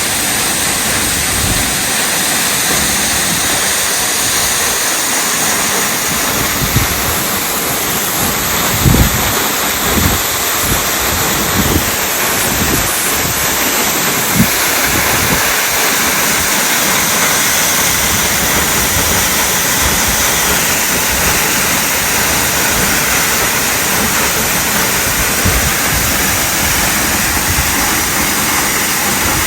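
Waterfall: a loud, steady rush of falling water, with a few short low thumps about a third of the way in.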